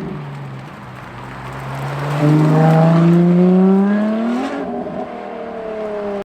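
Ferrari LaFerrari's V12 engine accelerating, its note climbing steadily in pitch and getting louder over about three seconds. About four and a half seconds in, the pitch drops and the engine settles to a steadier, quieter note.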